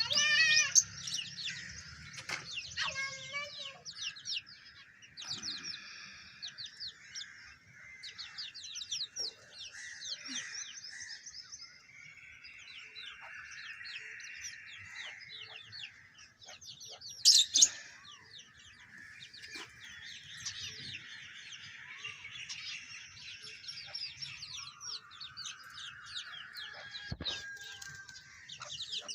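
Many birds chirping and calling together in a dense chorus of short, quick notes, with a louder call at the very start. A single sharp, loud sound cuts through about 17 seconds in.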